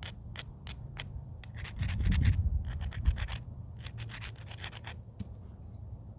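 Flintknapping: a few sharp stone clicks, then stone scraping and rubbing along the edge of a flint piece in two runs of fine, rasping strokes, with one louder knock in the middle.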